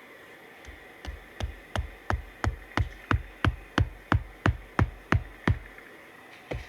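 Steady hammering, about three sharp knocks a second, each with a deep thud, pausing briefly near the end and then starting again.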